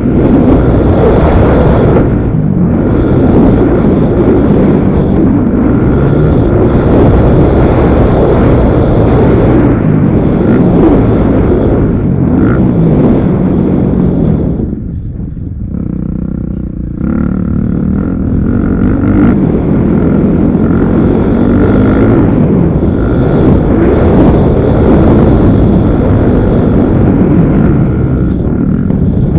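Motocross motorcycle engines revving up and down as the bikes ride the track, loud and continuous, easing off briefly about halfway through.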